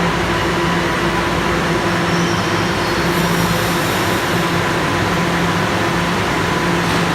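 Bombardier Toronto Rocket subway train giving a steady, loud running noise with a low electrical hum and a few faint steady whining tones.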